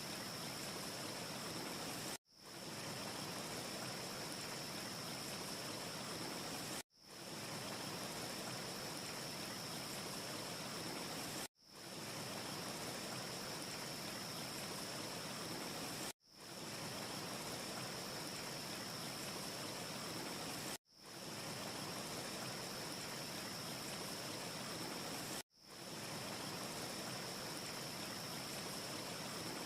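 Steady, fairly quiet rushing noise with a faint high hiss and no crackles. It is a short loop: the sound drops out briefly and fades back in about every four and a half seconds, six times.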